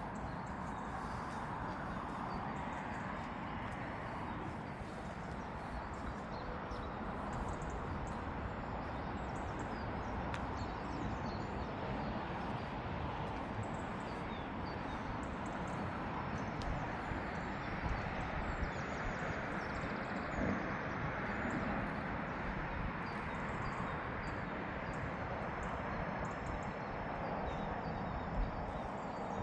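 Footsteps of a person walking at an even pace, over a steady outdoor background noise with faint bird chirps.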